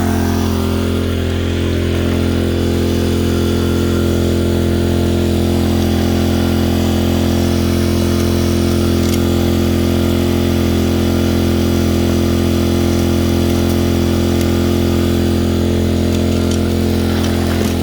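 Small gasoline engine of a gold-prospecting suction dredge running steadily at constant speed.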